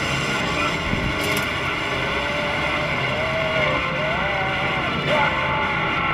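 Steady running noise of vehicle engines from the aircraft tow truck, with a faint wavering tone over it.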